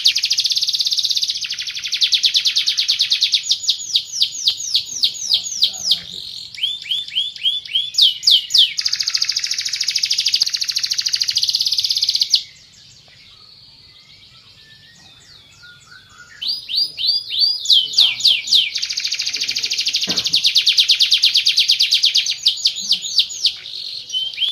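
Van Hesterling canary singing long, rapid trills and rolling phrases of fast repeated notes. It stops for about four seconds around the middle, then starts up again.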